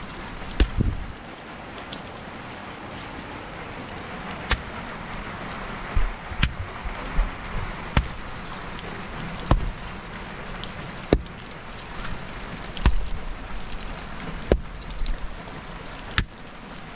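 Steady rain falling on a surface, with sharp single drips landing about every one and a half seconds.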